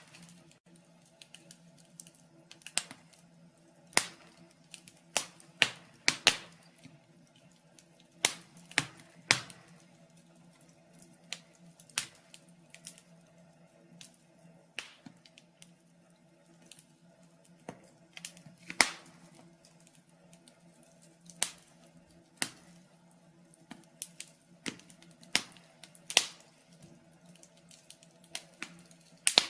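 Wood fire crackling in a fireplace: irregular sharp pops and snaps of varying loudness, a few to several a second, over a faint steady hum.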